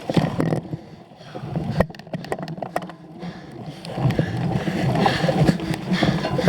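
Cyclocross bike ridden hard over rough ground: irregular rattling and knocks from the frame and chain, with the rush of tyres and air on the microphone.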